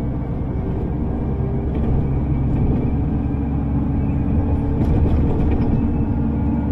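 Underground train running steadily: a continuous low rumble with a steady motor hum and a few faint clicks.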